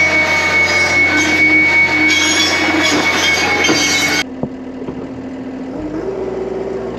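John Deere 333G compact track loader running hard with its hydraulic cutting attachment, a steady high squealing whine over dense machine noise. About four seconds in this stops sharply, leaving the loader's diesel engine running lower, and its pitch steps up shortly after.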